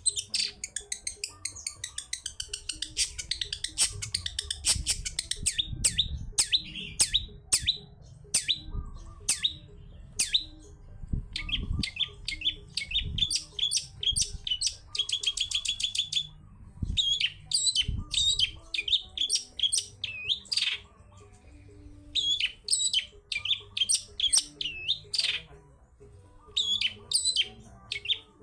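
Long-tailed shrike (cendet) singing a fast, varied run of sharp chips, harsh notes and trills in bursts with short pauses. One even rapid trill comes about halfway through.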